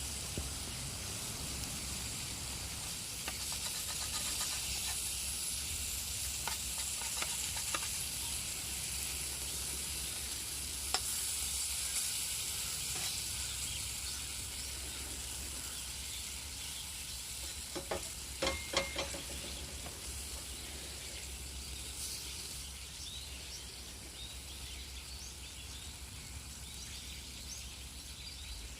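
Steak sizzling in a homemade SUS304 stainless-steel frying pan: a steady high hiss that eases slightly near the end. A quick cluster of sharp metallic clicks comes a little past halfway, with scattered single clicks elsewhere.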